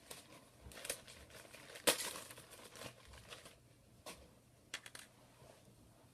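Small scratchy crinkling and scraping handling noises with a few sharp clicks, loudest about two seconds in, as the dust-clogged grille of an iPhone 6 earpiece speaker is cleaned.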